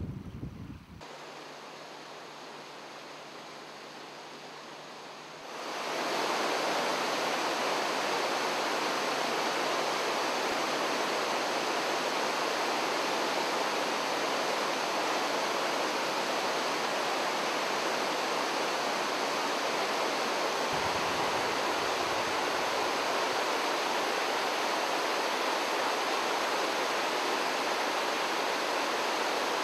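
A steady, even rushing noise that swells up about five seconds in and then holds unchanged, with a quieter hiss before it.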